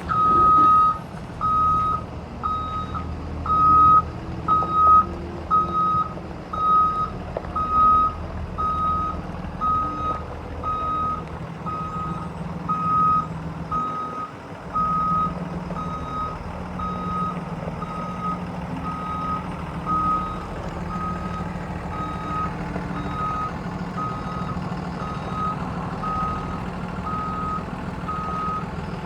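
Blue Bird school bus backing up, its backup alarm beeping steadily a little more than once a second over the low running of the engine.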